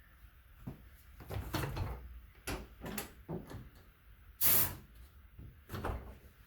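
Motorcycle tire bead being worked over the wheel rim on a tire changer: a series of irregular rubbing scrapes, the loudest about four and a half seconds in.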